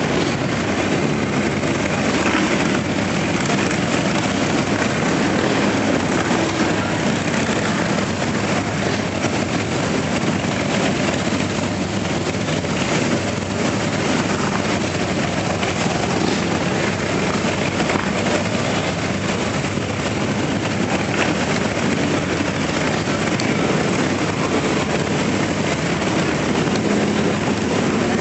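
A steady stream of motorcycles riding past, their engines running together without a break.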